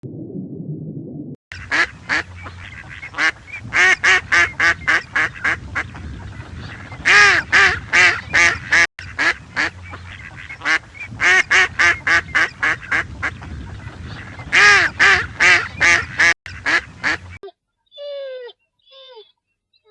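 Birds calling in fast runs of loud, repeated honking calls, several a second, after a low rumble in the first second and a half. A little before the end the honking cuts off, and a few short, falling bird calls follow.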